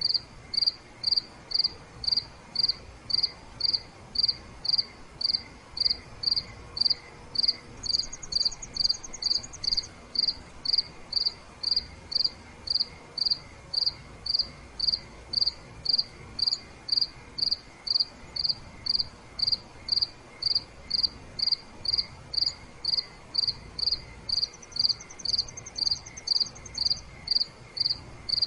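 Crickets chirping at night in a steady, even rhythm of about two chirps a second. Twice, a higher, faster trill joins in for a couple of seconds.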